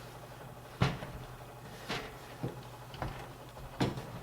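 A PC power supply being handled and set into a computer case: five separate knocks and clunks, the first the loudest.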